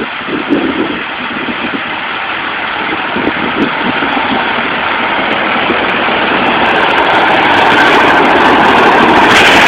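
Massey Ferguson tractor running a tiller through chicken house litter, its engine and the churning tiller growing steadily louder as it comes closer.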